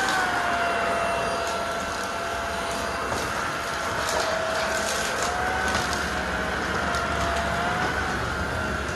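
LEVOIT VortexIQ 40 cordless stick vacuum running, a steady motor whine over rushing air. The pitch sags and recovers a little now and then. Scattered short ticks can be heard through it.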